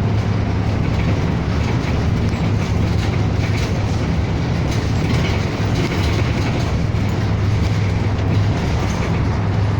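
Interior of a city bus under way: a steady low engine drone and road noise, with faint rattles over it.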